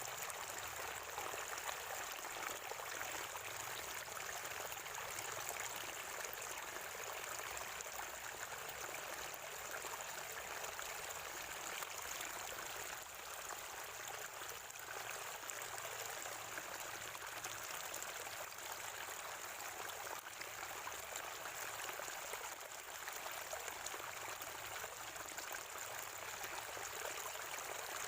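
Water from a natural spring running and gurgling steadily over stones, a continuous even rush.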